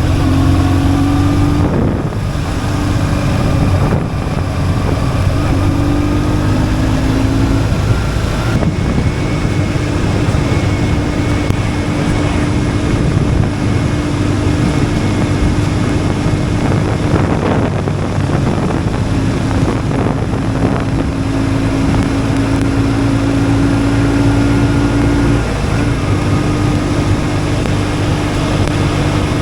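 BMW R1150GS boxer-twin engine running steadily under way, with wind rushing over the microphone. The engine note shifts briefly a few times.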